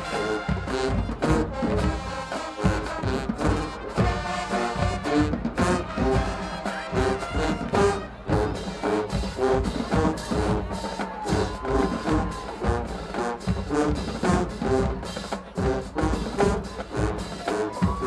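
Marching band playing: brass section with trombones and trumpets sounding chords over a steady drum beat.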